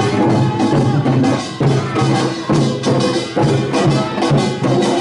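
Korean pungmul troupe playing drums and small gongs in a fast, dense rhythm, with a few held tones sounding underneath.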